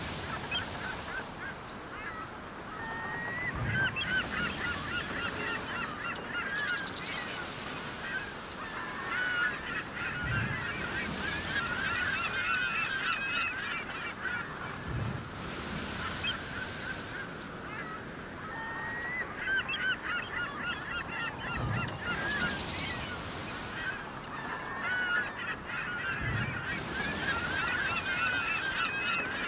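A flock of birds calling and chattering, many short overlapping calls swelling and thinning in waves, with a soft low thud every few seconds.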